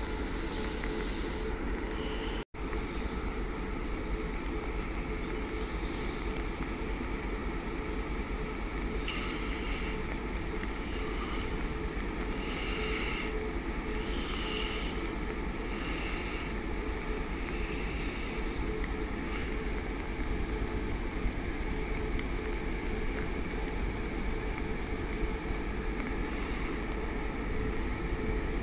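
Two DB class 143 electric locomotives with a freight train of tank cars: a steady rumble with a constant hum. The sound drops out briefly about two seconds in.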